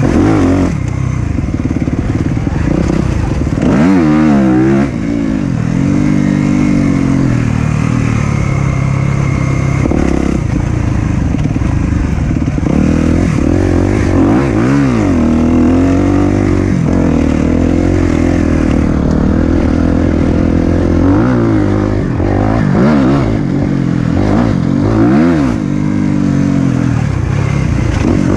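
Single-cylinder four-stroke dirt bike engine running along a trail, revving up and dropping back again and again as the rider works the throttle and gears.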